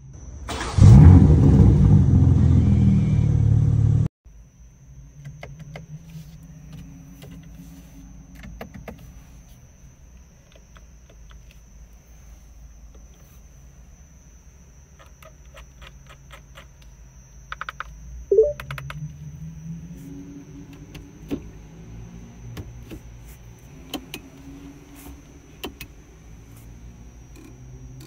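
BMW G87 M2's twin-turbo 3.0-litre inline-six starting with a loud burst of revs for about three seconds that cuts off abruptly. Then a quiet, steady low idle is heard from inside the cabin, with scattered clicks of console buttons and one short louder sound a little past halfway.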